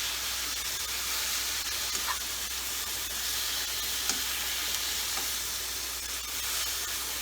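Grilled brinjal mash with onion sizzling steadily in oil in a pan on the flame, with a few light taps of a spatula as it is stirred.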